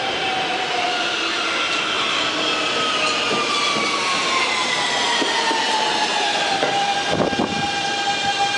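R160B subway train's Siemens propulsion whine sliding down in pitch as the train slows into the station, levelling into a steady tone about seven seconds in. A short burst of noise comes at the same moment.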